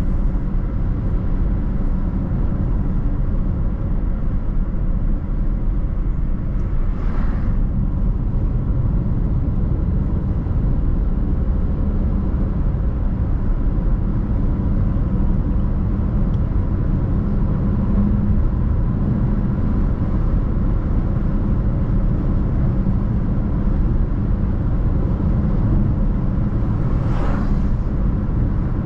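Steady road and engine noise of a car being driven, with a brief whoosh about seven seconds in and another near the end.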